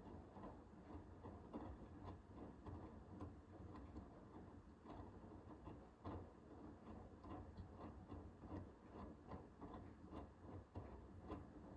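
Hoover H-WASH 500 washing machine running early in a cotton 60 °C wash, heard faintly: a low hum with many small, irregular clicks and ticks.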